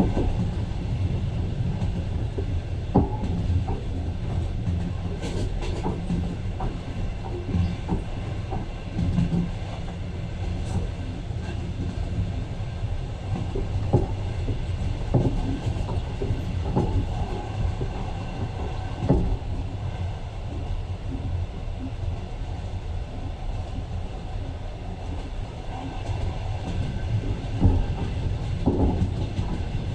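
Passenger train running, heard from inside the carriage: a steady low rumble with irregular knocks and clacks of the wheels over the rails.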